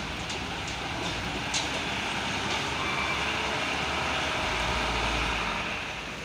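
Truck running with a low rumble under a steady noisy hiss, with a few scattered sharp ticks; it grows slightly louder past the middle.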